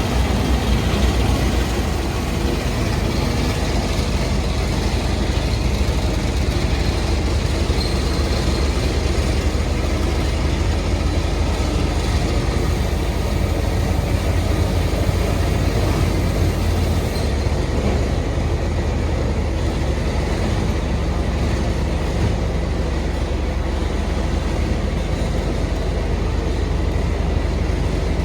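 Old heavy truck's engine running steadily with a deep low rumble, mixed with rattling and road noise from the moving truck.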